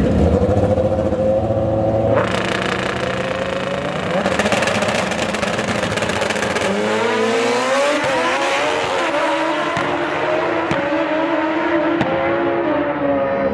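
Drag-racing motorcycle engines running, with one engine rising steadily in pitch as it accelerates about seven seconds in.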